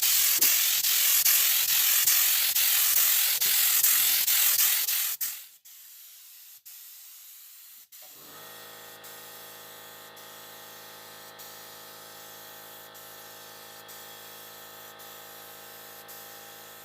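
A steady, loud spraying hiss that cuts off suddenly about five seconds in. After a short quiet gap, a soft, steady held tone made of several pitches continues to the end.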